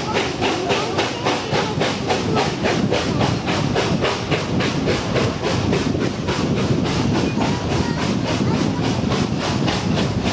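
Steam locomotive 3642, a NSW 36 class, working along at speed: steady, even exhaust beats about four a second over a continuous hiss.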